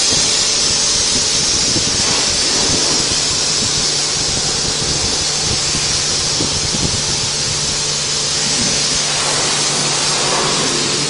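Water spraying under high pressure during a car wash, a steady loud hiss with a low even hum underneath.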